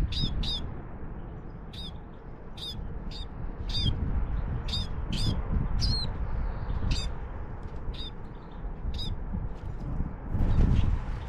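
A small songbird calling over and over: about a dozen short, sharp high calls, roughly one a second, over a low rumble.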